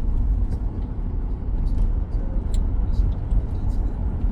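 Steady low road and tyre rumble inside the cabin of a 2023 Tesla Model X, an electric car, on the move. A few faint scattered clicks sound over it.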